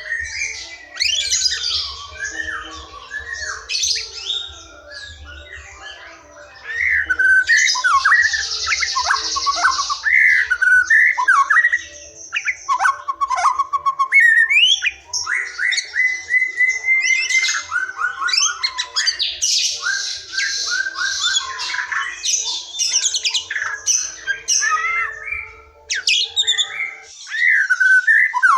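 A white-rumped shama singing a long, varied song of whistled notes, slurred glides and fast trills, broken by harsh rasping chatter about seven seconds in and again around twenty seconds.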